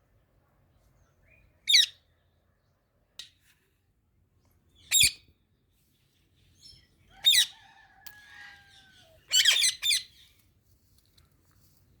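Indian ringneck parakeets giving short, loud, harsh squawks, about five in all with a quick pair near the end, and softer chatter in between.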